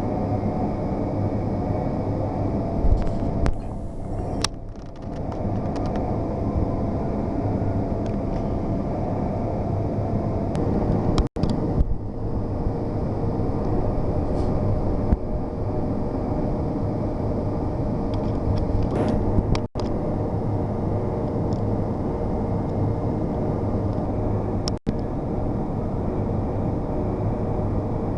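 WMW BMT 105 CNC horizontal boring machine running steadily, with a constant low hum and a few steady higher tones. The sound cuts out for an instant three times.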